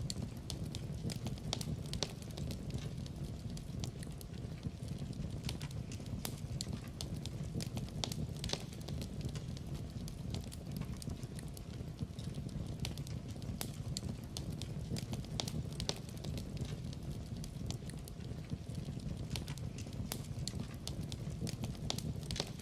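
Wood burning in a fireplace, crackling: frequent irregular sharp pops and snaps over a steady low rumble of the fire.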